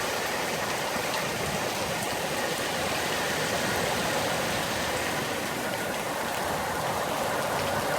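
Heavy rain pouring down, a dense, steady hiss of the downpour.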